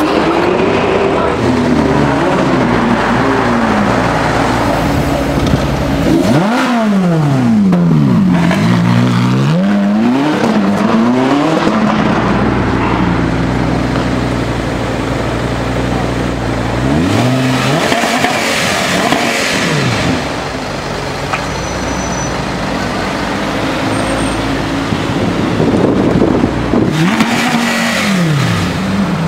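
Sports car engines idling and revving. The pitch drops and climbs sharply several times: in the first half, once more about two-thirds of the way in, and again near the end, with a steady low engine note between.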